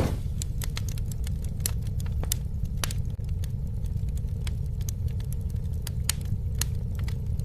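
Campfire crackling: irregular sharp pops and snaps of burning wood over a steady low rumble, with a short rush of noise at the very start.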